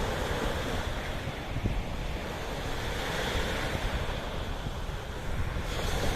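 Sea waves washing continuously, with wind buffeting the microphone in a low rumble.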